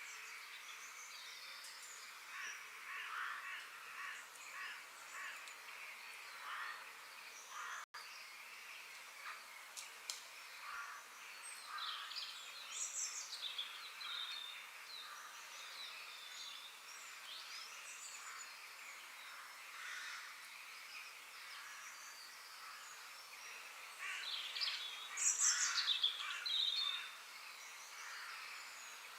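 Forest bird chorus: many birds chirping and whistling over a faint steady background hiss, with a louder cluster of calls near the end. The sound cuts out for an instant about eight seconds in.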